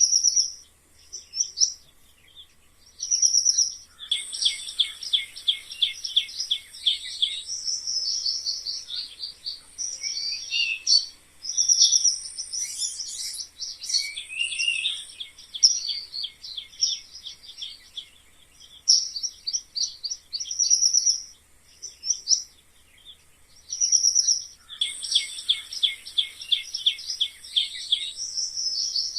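Mice squeaking: fast trains of short, high-pitched chirping squeaks, many a second, coming in runs of a few seconds with brief pauses between.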